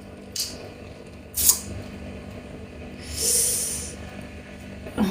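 Close-miked eating sounds from a Chinese mitten crab: sharp clicks and cracks of shell, the loudest about a second and a half in, then a long airy suck lasting about a second.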